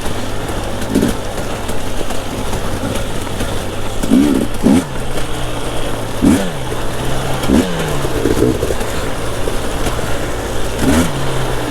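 Two-stroke enduro dirt bike engine running at low revs, then blipped in short bursts about six times from a third of the way in, the revs dropping back after each. Steady rushing noise behind it.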